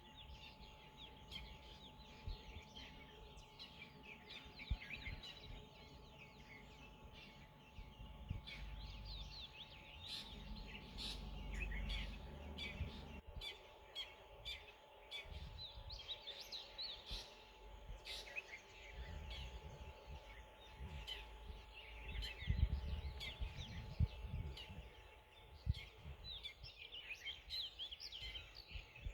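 Many small birds chirping and singing together in a busy morning chorus, over a faint steady tone, with uneven low rumbles at times.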